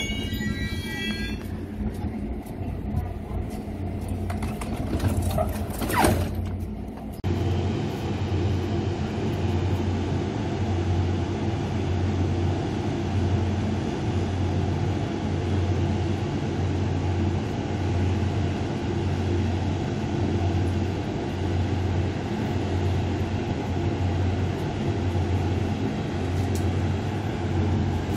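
Mugunghwa-ho passenger train standing at the platform, idling with a steady low hum that pulses about once a second. A brief sharp noise stands out about six seconds in.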